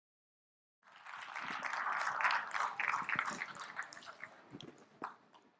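Audience applause: many hands clapping, starting suddenly about a second in, at its fullest around two seconds, then thinning out and dying away near the end.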